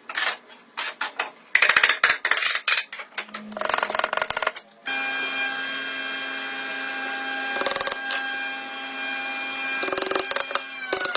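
Woodworking tools on wood: a few knocks, then two runs of fast scraping or rasping strokes. About five seconds in, an electric power tool starts and runs with a steady whine. It cuts harder briefly a little past halfway and begins to wind down in pitch at the very end.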